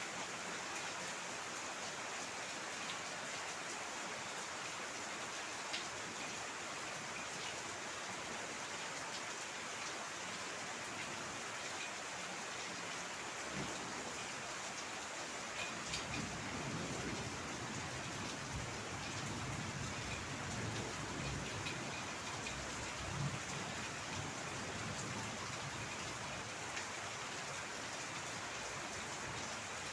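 Heavy rain falling as a steady, even hiss. From about halfway through, an uneven low rumble joins it.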